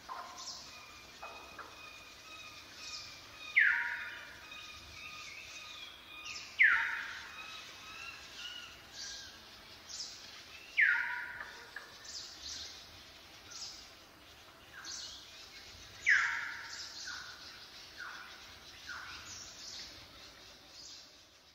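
Birds calling in trees. One loud call falls in pitch and comes four times, several seconds apart, over fainter chirps and whistles from other birds.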